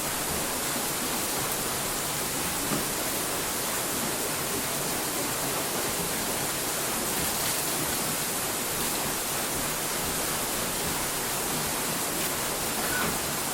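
Steady, even hiss of noise with no breaks, beats or pitched tones, like static.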